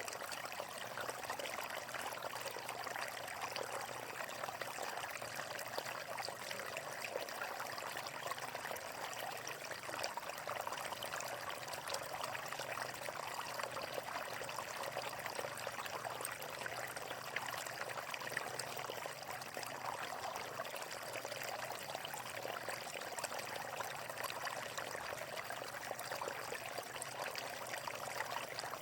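Running water flowing steadily outdoors, an even rush and trickle with no breaks or changes.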